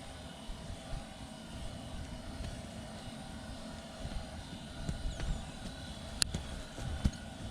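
Steady low rumble of strong wind buffeting an ice-fishing shelter, with a faint steady hum above it. A single sharp click sounds about six seconds in.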